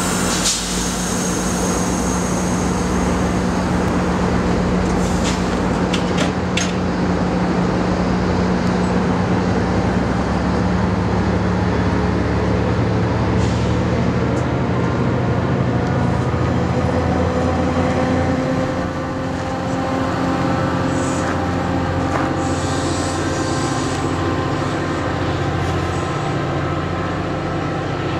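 MARC commuter coaches rolling past behind an accelerating GP-39 diesel locomotive: a steady engine hum with a tone that rises slowly as the train picks up speed. A brief high wheel squeal near the start and sharp wheel clicks over the rails in the first seven seconds; the sound eases a little as the train draws away.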